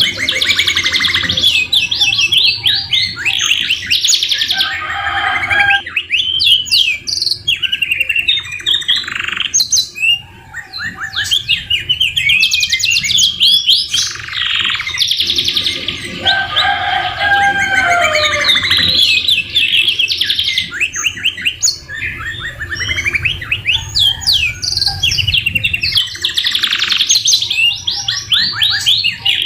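Domestic canary singing a long, continuous song of rapid rolling trills and chattering phrases, mixed with lower whistled notes. The song is filled with phrases learned from the white-rumped shama. There are short lulls about a third and halfway through.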